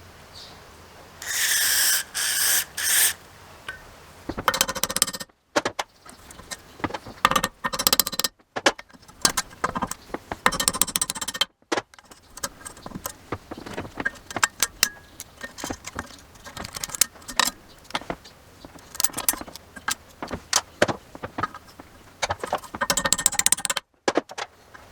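Hands-on work on a small Honda lawnmower engine. Three short hissing bursts come about a second in, then a long run of clicks, taps and scrapes of tools and metal parts.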